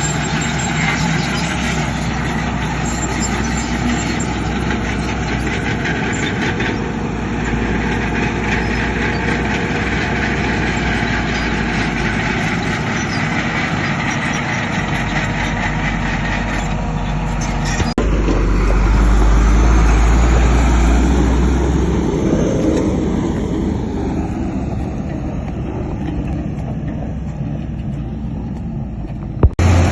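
Diesel engines of heavy earthmoving machinery, a bulldozer and dump trucks, running steadily under work. About halfway through the sound switches suddenly to a louder, deeper engine that slowly eases off, and another sudden change comes just before the end.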